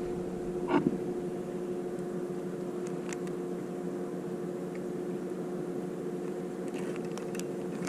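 A steady mechanical hum of a few fixed tones, with a brief faint sound about a second in and a few light clicks later.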